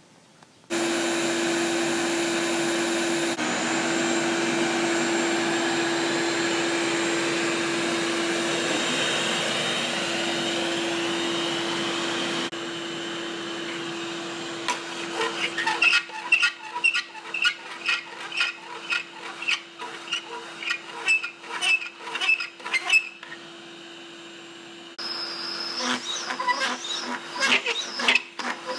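A vacuum cleaner switches on about a second in and runs with a steady hum. From about halfway through, rapid high-pitched squeaks and chirps come over the continuing hum, with a short quieter spell before they start again near the end.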